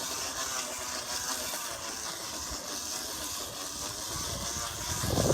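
Empty plastic water bottle against a rolling bicycle's wheel, slapped by the turning wheel into a steady drone that sounds like a motorcycle. The drone gets louder and rougher near the end.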